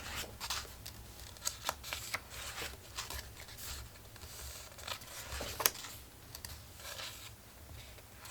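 Faint paper rustling with scattered soft clicks and crackles as the pages of a paper collage book are turned and handled.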